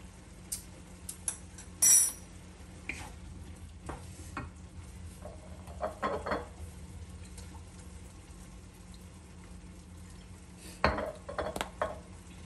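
Seafood stir-fry sizzling faintly in a wok, with scattered clinks and knocks of kitchen utensils and dishes. The loudest is a sharp clatter about two seconds in, and there are short clusters of knocks around the middle and near the end. A steady low hum runs underneath.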